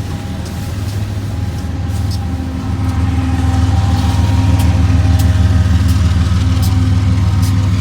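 Coal train passing, with a diesel locomotive engine's low drone that grows louder from about two seconds in and then holds steady. Scattered sharp clicks come through as wheels pass over the rail joints.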